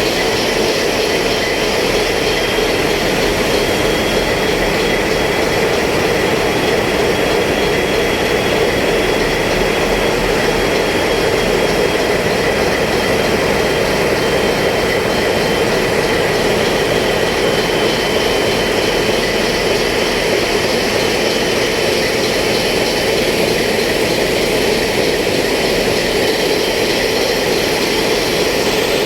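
Ship's diesel engines running steadily, heard on board as a loud, even drone with a faint high whine over it.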